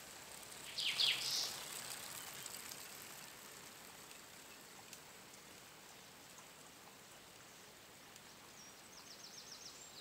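Wild birds calling over a steady outdoor background hiss: a loud cluster of short falling chirps about a second in, and a fast high trill near the end.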